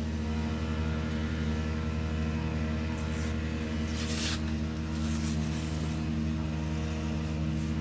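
A steady, even machine drone, like a motor running, with a few short hisses about three, four and five seconds in.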